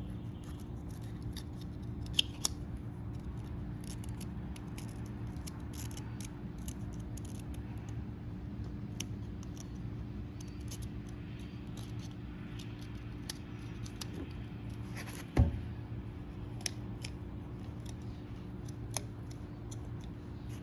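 Small clicks and ticks of hands and tools fitting a wiper seal into the gland of a hydraulic cylinder, with a sharper knock about 15 seconds in, over a steady low hum.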